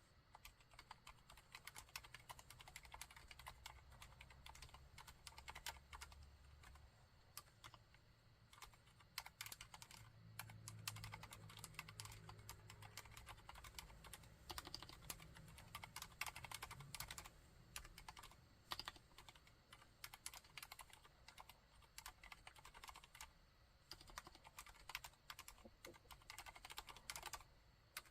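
Steady, quick typing on a Mistel MD600 Alpha split mechanical keyboard with Cherry MX Silent Red switches: a dense run of quiet, soft keystrokes.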